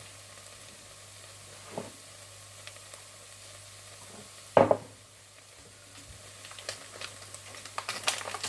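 Chicken pieces sizzling as they fry, a steady hiss. A sharp knock, like a utensil or pan being struck, comes about halfway through and is the loudest sound. A run of light clicks and taps follows near the end.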